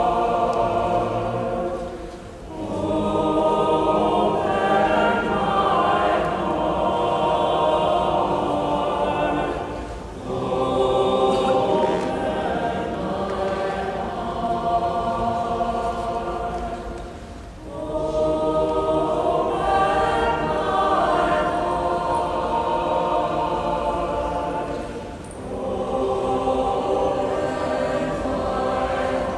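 Choir singing a hymn in long held phrases, with short breaks between phrases about every seven to eight seconds.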